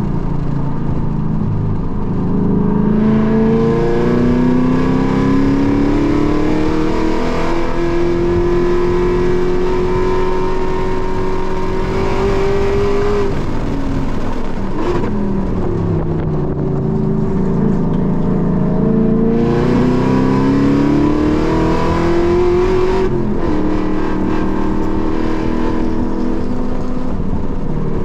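A car engine heard from inside the cabin at racing speed: it pulls for about ten seconds with its pitch climbing, falls away as the car comes off the throttle, then climbs again for a few seconds before falling off once more near the end.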